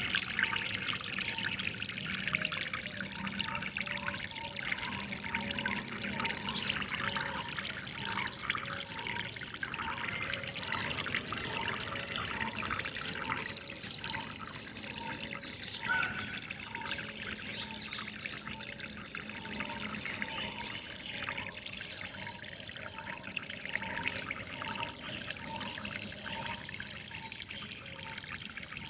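Water trickling and splashing steadily, with a bird repeating a short call at an even pace, a little under a second apart.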